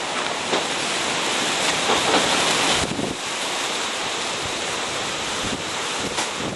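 Hurricane-force wind blowing hard, a loud steady roar buffeting the microphone, easing slightly about three seconds in.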